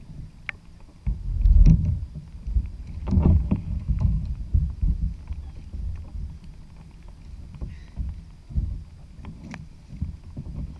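Sea kayak on the open ocean: gusty low rumbling of wind on the microphone and water against the hull, with a few light clicks and knocks.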